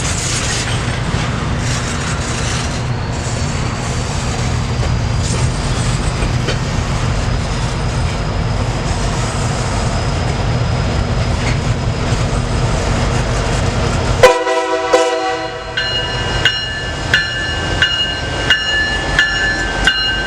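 Diesel locomotive (SD60E) running with a steady low rumble, then one horn blast of about a second and a half near the fourteen-second mark. After the horn a bell rings, about one and a half strokes a second, over the continuing train rumble.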